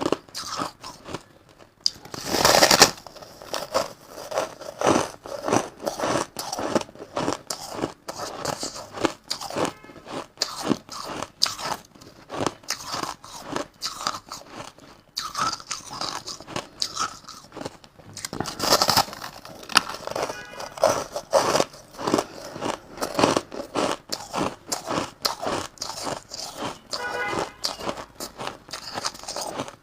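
Crushed ice being bitten and chewed close to the microphone: a fast, uneven run of crisp crunches, with two louder bites about two seconds in and again near the nineteen-second mark.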